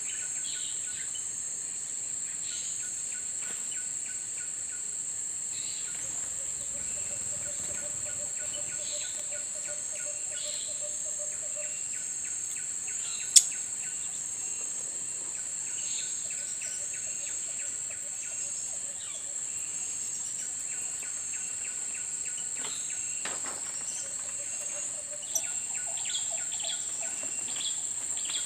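Steady high-pitched drone of insects, with small birds chirping faintly now and then and one sharp click about halfway through.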